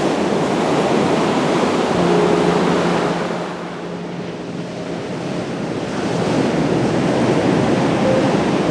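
Ocean surf washing onto a beach: a continuous rush of breaking waves that swells, eases off in the middle and builds again near the end.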